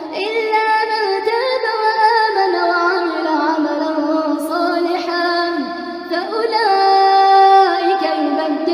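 A single high voice chanting Quran recitation melodically, drawing out long wavering held notes, with one long steady note near the end.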